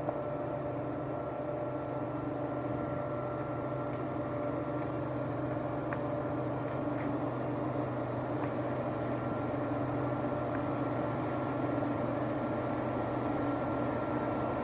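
Heavy diesel engine running steadily at constant revs, slowly growing a little louder.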